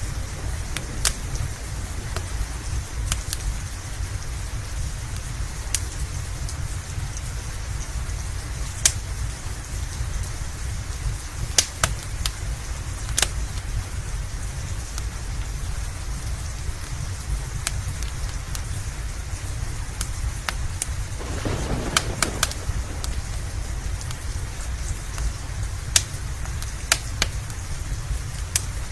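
Steady rain with a wood fire crackling: sharp pops scattered irregularly over a constant low rumble and hiss, with a brief swell a little past two-thirds of the way in.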